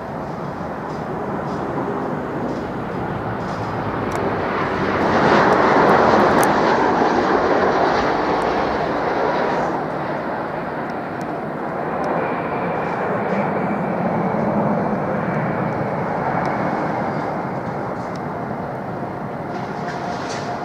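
Jet airliner passing, its engine noise swelling to a peak about six seconds in and then slowly fading, with a steady high whine coming in about halfway through.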